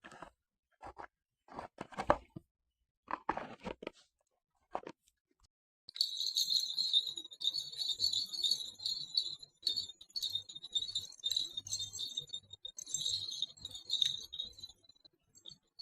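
A few scattered clicks and knocks, then about six seconds in a dense, continuous metallic jingling, bright and high, that dies away near the end.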